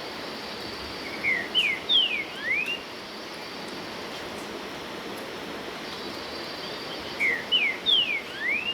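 A songbird singing a short phrase of four clear whistled notes, the first three slurring down and the last sweeping up, twice, about six seconds apart, over a steady background hiss.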